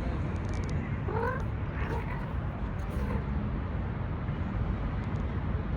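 A steady low background rumble, with a short cat meow about a second in and a fainter call shortly after.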